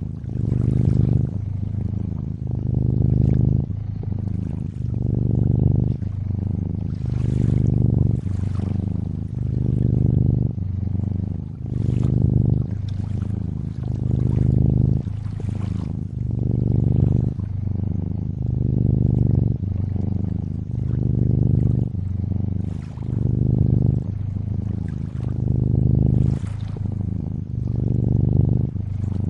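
Cat purring, a low steady rumble that swells and eases about every two seconds with each breath in and out. Faint lapping water runs beneath it.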